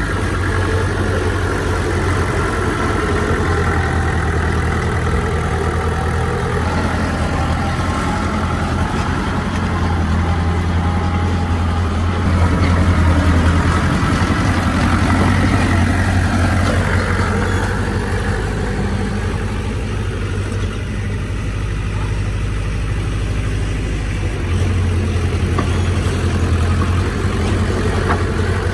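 Heavy earthmoving machinery's diesel engine running steadily with a deep hum, working harder for a few seconds about halfway through and again near the end.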